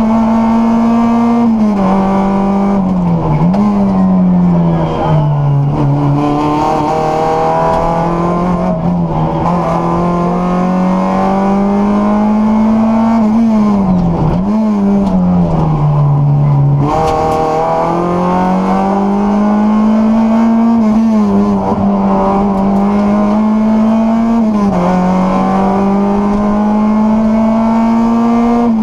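Rally car's engine heard from inside the cabin at stage pace, its note climbing as it accelerates and dropping away several times as the driver lifts and changes gear for corners, with sharp falls about 3, 14 and 17 seconds in.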